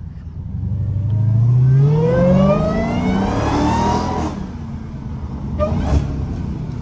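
Straight-piped Dodge Challenger Hellcat's supercharged 6.2-litre Hemi V8 accelerating hard, its engine note and the high supercharger whine rising together for about three and a half seconds before the driver lifts off about four seconds in and it falls back to a lower drone. The supercharger whine is described as screaming.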